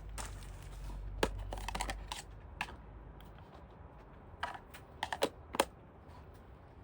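Hard objects being handled: a quick run of clicks and light knocks in the first few seconds over a low rumble, then a handful of sharper knocks about four to six seconds in.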